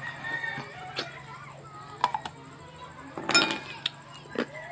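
Close mouth sounds of someone eating and chewing, with a few sharp clicks and a louder cluster about three and a half seconds in, over a steady low hum.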